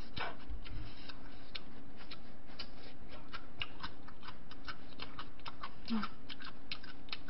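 Close-miked crunching of crispy fried chicken being chewed: a stream of irregular sharp crunches, several a second.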